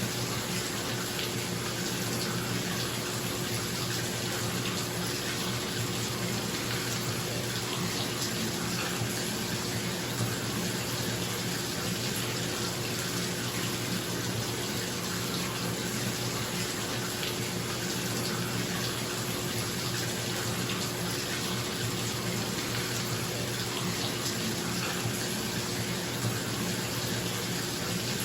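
Bathtub filling from a running tap, a steady splashing rush of water, with a bathroom exhaust fan humming underneath.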